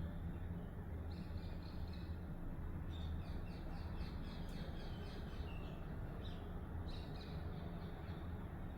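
Washing machine running with a steady low hum and rumble. Faint high chirps come in short runs about a second in, around three to four seconds in, and again near seven seconds.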